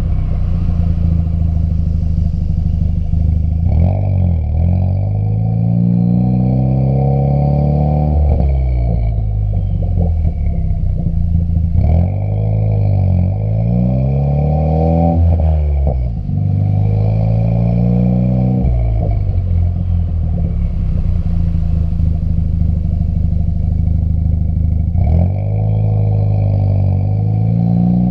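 Ford Fiesta ST's engine through an MBRP 3-inch exhaust, the note climbing under acceleration and dropping sharply several times as the revs fall between pulls or gear changes.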